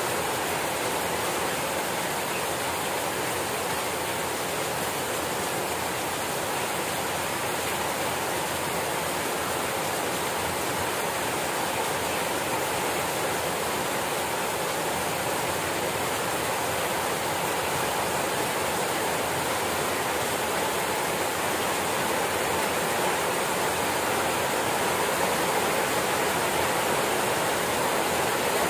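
Rain falling steadily: an even, unbroken hiss that grows a little louder near the end.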